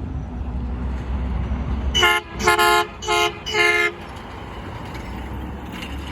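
Garbage truck horn honking four short blasts in about two seconds, a two-note chord. It sounds over the truck's low engine rumble, which drops away as the honking starts.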